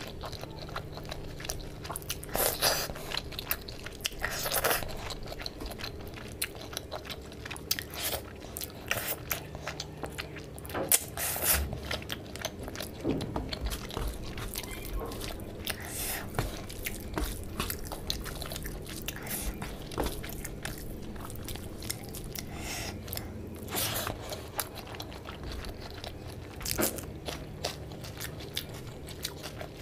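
Close-miked chewing, biting and mouth sounds of eating rice and curry by hand, with a few louder bites and smacks scattered through, between the fingers mixing rice into the curry gravy on the tray.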